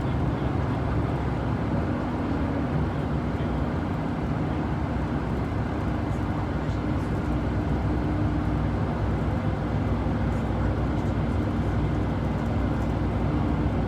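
Steady engine hum and road rumble of a moving bus, heard from inside the passenger cabin.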